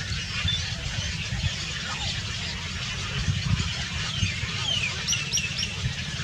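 Small birds chirping, with a falling call about four and a half seconds in and a run of three quick high notes just after, over a steady low rumble.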